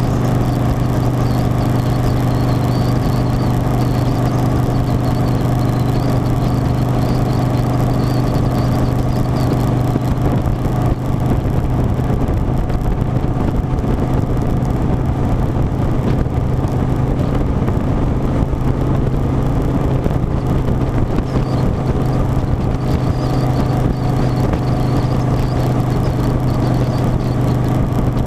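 Harley-Davidson Softail Standard's V-twin engine running at a steady speed, its pitch holding constant.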